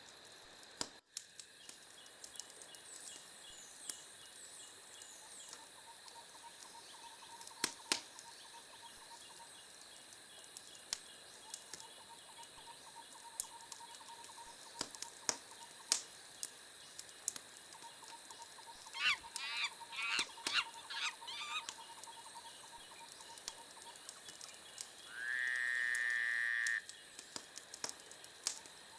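Wood fire crackling with scattered sharp pops, under a faint steady chirping like insects. About two-thirds through comes a quick run of animal calls, and near the end a loud honk-like call held for about a second and a half.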